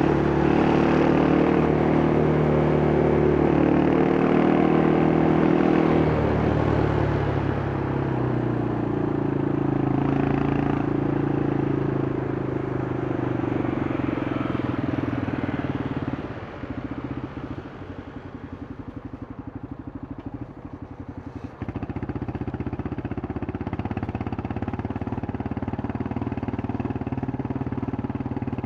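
Yamaha Scorpio's single-cylinder four-stroke engine through its stock exhaust, running under way, then easing off with falling pitch. A little past halfway it drops to a quieter, pulsing idle for about five seconds, then picks up again to a steady run.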